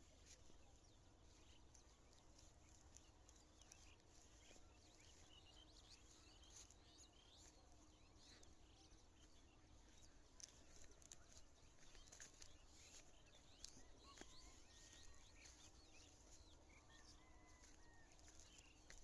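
Faint outdoor ambience: small birds chirping and twittering in short calls, over a low steady rumble.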